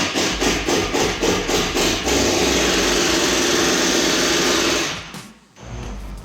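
A handheld power tool running at full speed while working on the truck's underside: it starts in short bursts for about two seconds, then runs steadily and stops about five seconds in.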